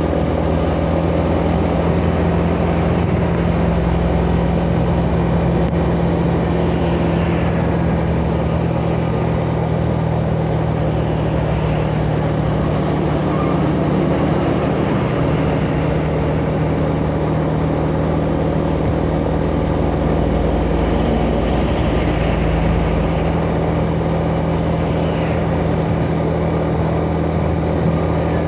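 Yamaha Jupiter Z underbone motorcycle's single-cylinder four-stroke engine running at a steady pitch while riding, with road and wind noise, picked up by a chest-mounted phone.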